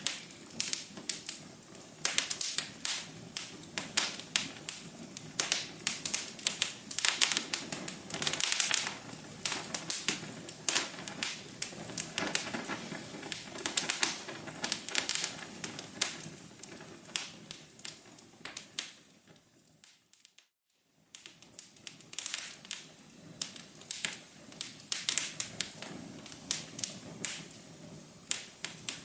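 Wood fire in a fireplace crackling, with frequent sharp pops and snaps over a soft low hum. About two-thirds of the way through it fades almost to silence for under a second, then the crackling resumes.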